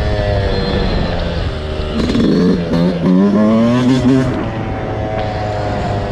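Dirt bike engine running, revved up and down a few times about two seconds in, then holding a steadier, slowly falling note.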